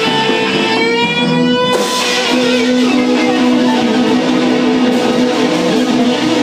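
Live jam session led by electric guitar, with sustained notes over a full, steady band sound. About a second in, a held note slides slightly upward while the rest thins out briefly, then the full sound comes back.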